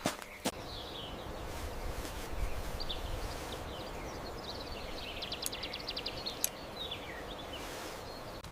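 Outdoor ambience with scattered bird chirps over a low steady rumble, and a fast rattling trill of about a dozen pulses about halfway through.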